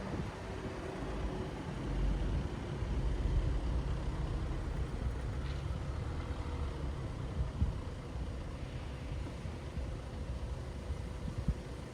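City road traffic: a steady low rumble of engines and tyres from passing cars and heavier vehicles, swelling about two seconds in as a vehicle goes by, then easing.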